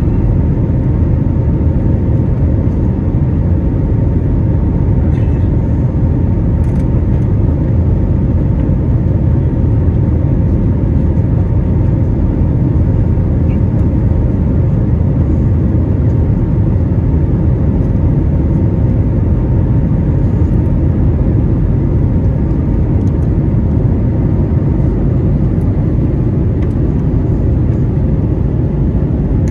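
Airbus A321neo in flight after takeoff, heard from inside the cabin: a loud, steady rumble of engines and airflow with a faint steady hum. The higher part of the hum fades out near the end.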